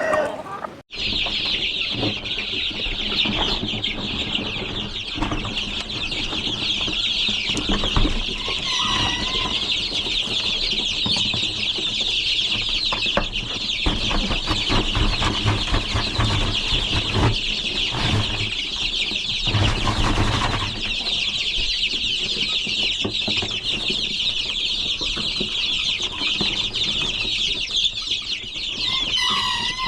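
Chickens: a dense, continuous high-pitched peeping chorus, with a short clucking call about nine seconds in and again near the end.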